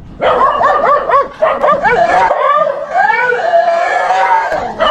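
Dogs barking and yipping in quick, overlapping succession at different pitches, with longer drawn-out howl-like calls for about two seconds in the middle.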